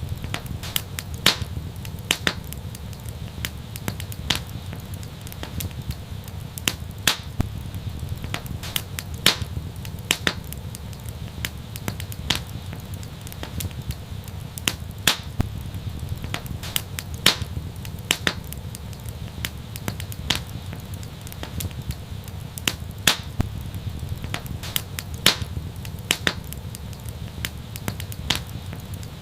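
Wood fire burning with a steady low rumble and irregular crackles and sharp pops, several a second.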